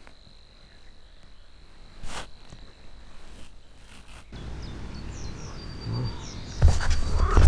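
Outdoor ambience with a steady high insect trill and a few bird chirps. Low rustling and handling noise builds up partway through and ends in loud thumps near the microphone just before the end.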